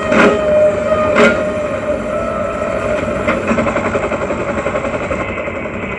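Film soundtrack of a helicopter action scene: a steady helicopter engine and rotor drone, with sharp hits in the first second or so and another a little after three seconds.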